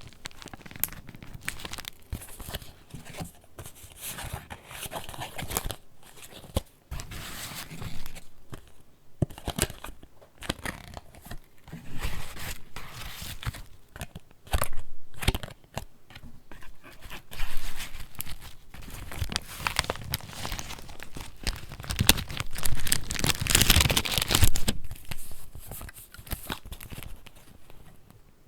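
Pages of a handmade junk journal being turned and handled: paper rustling and crinkling in irregular bursts, with small taps, loudest in the last third.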